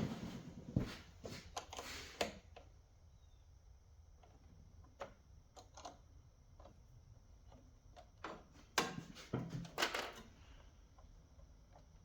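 Scattered clicks, taps and clunks of hands and tools working on a Husqvarna lawn tractor, with a cluster of louder knocks about nine to ten seconds in.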